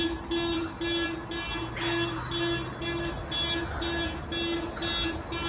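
Electronic alarm beeping steadily, about two beeps a second, with no change in rhythm or pitch.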